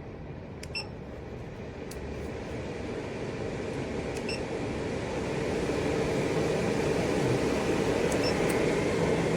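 12-volt RV roof vent fan running in intake, a steady rush of air that grows louder as it speeds up. Three short beeps from the fan's controls, about a second in, about four seconds in and near the end.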